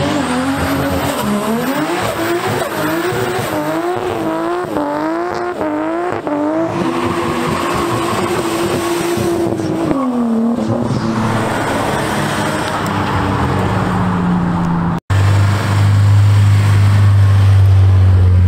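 A car engine revving hard through a burnout, its pitch bouncing rapidly up and down, then held high before dropping about ten seconds in. After a sudden cut near the end, another car's engine runs with a steady deep drone.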